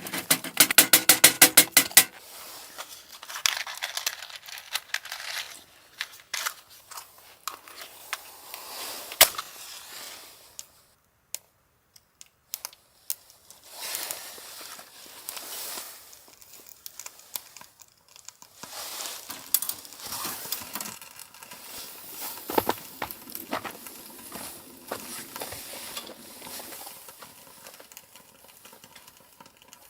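Handling noises: crinkling and rustling, with scattered sharp clicks and clinks. A quick rasping run of rapid clicks comes in the first two seconds, and there is a brief lull about halfway through.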